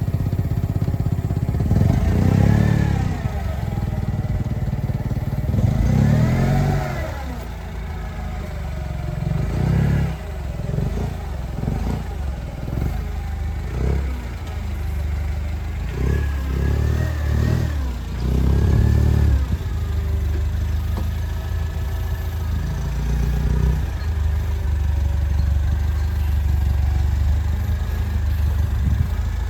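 Forklift engine revving hard twice as it lifts and swings a heavy crate, then more uneven surges, and finally running steadily.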